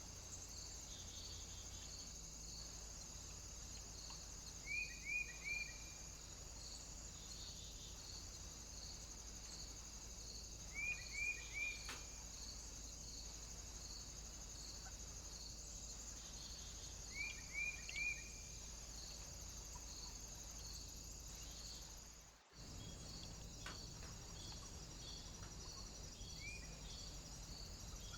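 A bird calling in short bursts of three quick downward notes, repeated about every six seconds, with a single note near the end, over a steady high hiss and a faint rapid pulsing. The sound drops out briefly about two-thirds of the way through.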